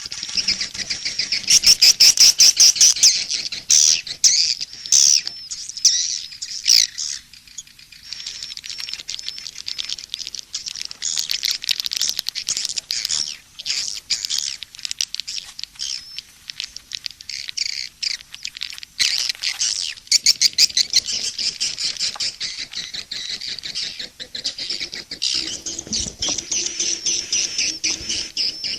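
Edible-nest swiftlet calls: dense, rapid trains of high chirps and twitters, loudest a couple of seconds in and again around the twenty-second mark. This is a swiftlet "SP" calling-sound mix, the kind played to draw swiftlets into a nesting house.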